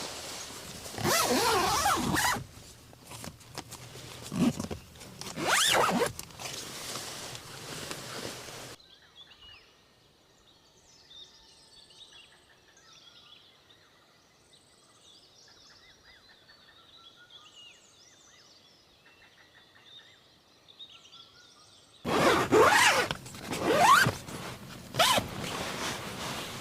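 A zipper pulled in a few quick rasping strokes, then a quiet stretch with faint high chirping, then more loud zipper strokes near the end.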